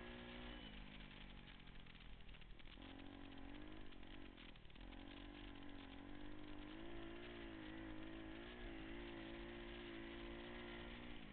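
Pit bike engine running as the bike is ridden. The pitch drops early on, dips twice, then holds fairly steady before falling off near the end.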